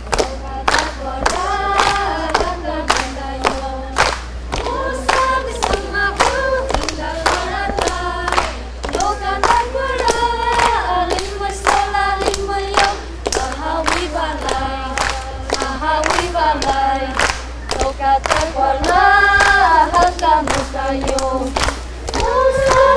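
A group of voices singing together in held, stepping notes, kept in time by sharp rhythmic claps about twice a second.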